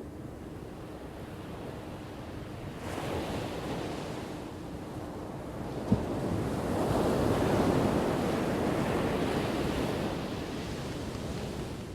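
Ocean waves crashing on a shore: one wave breaks about three seconds in, then a bigger one swells up after six seconds and washes out toward the end. A single sharp click sounds about halfway through.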